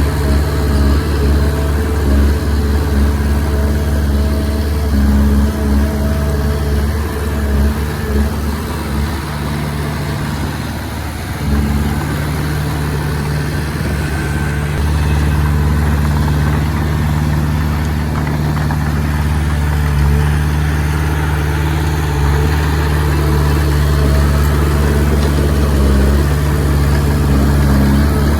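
Diesel engine of a Komatsu D20P bulldozer running steadily under work, easing off a little around ten seconds in and picking up again just after.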